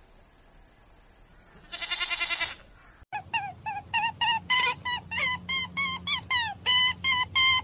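An animal bleats once with a quavering tremble about two seconds in. After a sudden cut about three seconds in comes a rapid run of short, honk-like animal calls, three or four a second, each bending in pitch.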